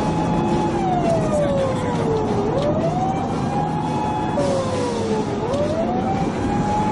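Japanese police car siren wailing in long cycles: a quick rise, a held high tone, then a slow fall, about every three seconds, over the steady running noise of the pursuing car.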